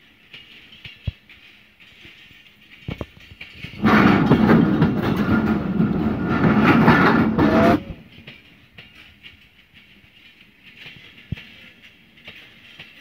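Pakistan Railways passenger coaches rolling slowly past at close range as the train pulls into the station, with a rumble of wheels on rail and a few sharp clicks. For about four seconds in the middle, the wheel-and-rail noise gets much louder and clattering, then it drops back to a low rumble as the train slows.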